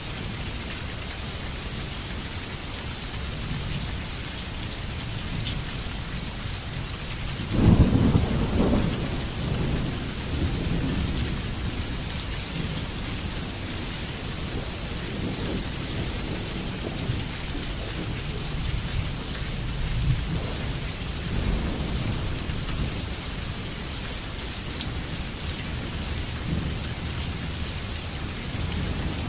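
Heavy rain falling steadily in an even hiss. Thunder breaks loudly about seven and a half seconds in and rolls off into low rumbles, with fainter rolls of thunder later on.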